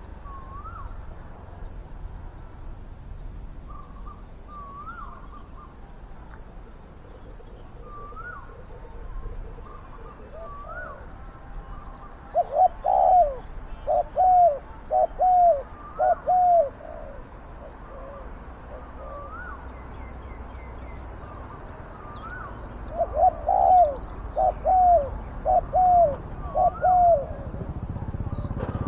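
Spotted doves cooing: two loud phrases of about five coos each, one starting about twelve seconds in and one about twenty-three seconds in. Fainter rising call notes repeat every second or two throughout.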